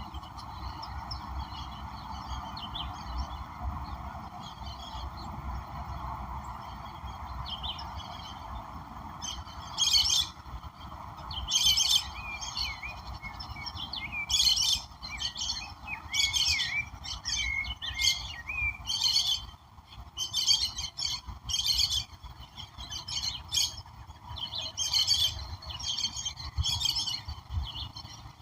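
Several wild birds chirping and calling in short bursts, busiest around the middle and again near the end, over a steady background hiss.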